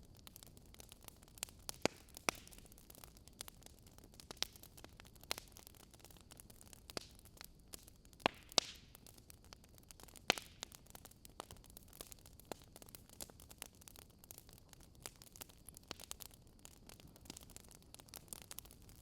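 Burning wood logs crackling: irregular sharp pops and snaps, a few louder ones, over a soft steady hiss.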